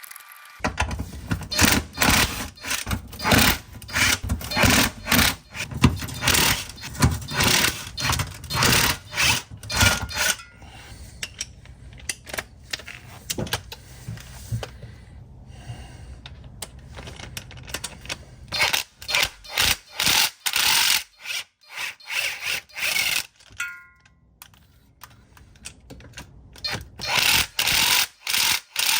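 Ratchet wrench being worked in quick back-and-forth strokes, loosening bolts, in long runs of clicking at the start and again in shorter bursts near the end.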